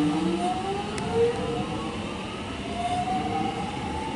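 X'Trapolis 100 electric suburban train pulling away from the platform. Its traction motors give off a whine of several tones that rises in pitch in steps as it accelerates, with a single click about a second in.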